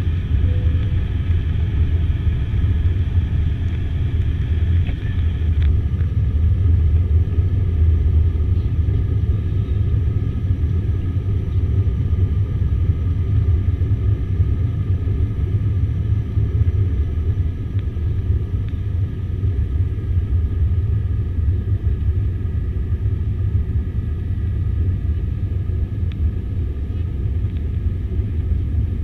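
Airliner cabin noise: a steady, loud rumble of the engines and airflow heard from inside the passenger cabin, with a faint steady whine above it.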